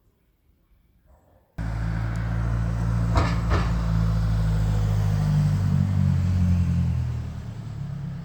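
A motor vehicle's engine running, a steady low hum that starts suddenly about a second and a half in and eases off near the end, with two short clicks shortly after it starts.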